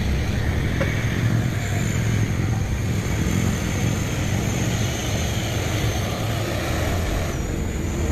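Heavy truck engine running steadily, a continuous low rumble with road noise and a faint high whine above it.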